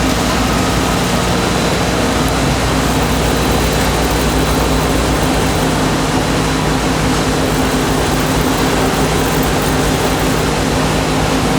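Loud, steady running of snack-food factory machinery: an even noise with a few steady hum tones and no breaks.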